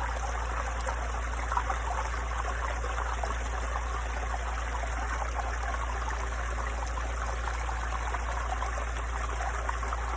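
A small mountain stream babbling and trickling steadily over rocks.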